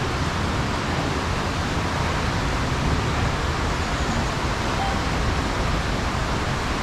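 Steady, even rushing noise with no distinct events: a constant noise bed of unclear source, such as wind on the microphone or station and traffic ambience.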